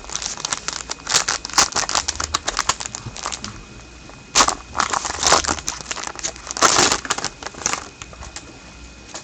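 Trading card pack wrapper crinkling and crackling in bursts as it is handled and opened, with cards being shuffled.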